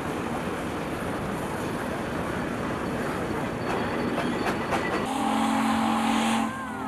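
Steady mechanical running noise from the steam traction engines, then about five seconds in a steam whistle blows a steady blast of several pitches sounding together, breaking off briefly near the end.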